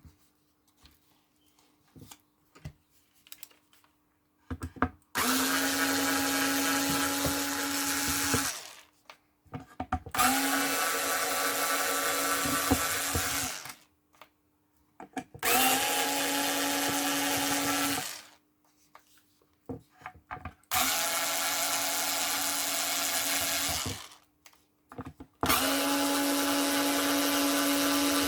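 Power screwdriver motor running in five steady bursts of about three to four seconds each, with light clicks between, as it backs screws out of an engine ECU's back cover.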